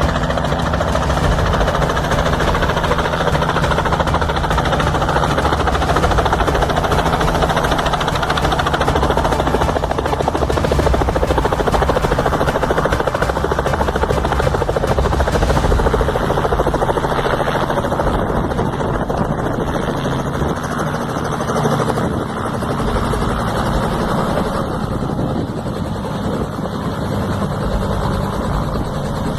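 Helicopter in flight: a steady, loud drone of rotor and engine. About halfway through, the high hiss drops away, leaving a lower drone.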